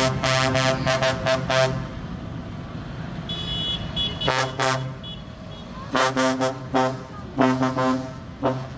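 Vehicle horns sounding in strings of short toots: a quick run of blasts at the start, a pause of a couple of seconds, then more bursts of toots.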